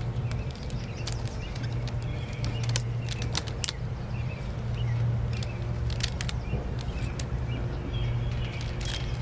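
Rubber bands being stretched and snapped onto a watermelon, making irregular sharp snaps and clicks over a steady low hum.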